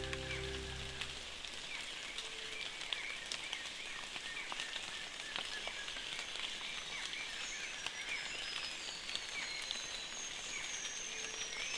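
Soft, steady rain falling on rainforest foliage, with scattered drops ticking close by. Small chirping calls repeat over the rain, and a thin high call comes in near the end.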